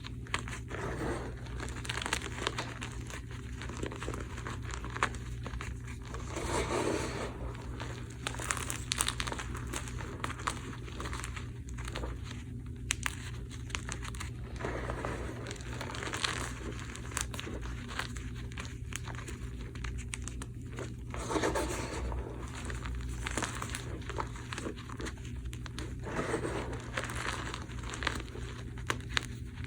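Blocks of magnesium carbonate gym chalk, topped with cornstarch, being crushed and crumbled: an irregular run of crunches and powdery crumbling, with many sharp cracks and a few louder crunches. A steady low hum sits underneath.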